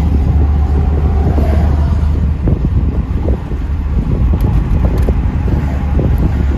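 Steady low drone of a 1984 Pontiac Trans Am under way, heard from inside the car, with wind buffeting the microphone.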